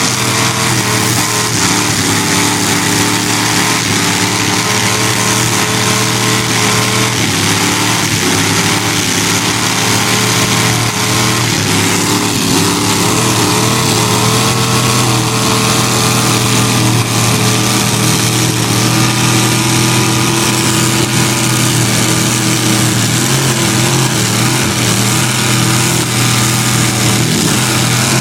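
Truck engine running hard at high revs in a truck pull, steady and loud, its pitch wavering up and down slightly at a few points.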